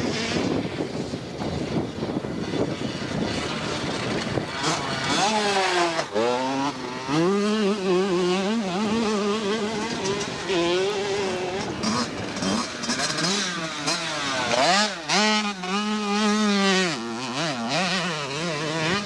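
Motocross bike engines, among them a Yamaha YZ85 two-stroke, revving hard around the track. For the first few seconds the sound is a rough, noisy blur. From about five seconds in, one engine's pitch climbs and drops again and again as the rider shifts gears and goes on and off the throttle. Its pitch wavers quickly near the two-thirds mark, then holds at high revs before falling away.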